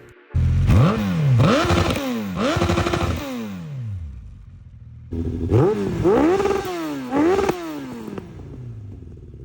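Two sport-bike engines, a Suzuki Hayabusa and a Yamaha R1 on Yoshimura RS3 exhausts, rev-bombed in turn. Each engine gives a run of about four quick throttle blips, each rising and falling in pitch. After the second run the engine settles back to idle.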